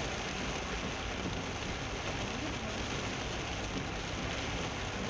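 Heavy rain drumming steadily on a moving car, with a low road and engine rumble underneath, heard from inside the car.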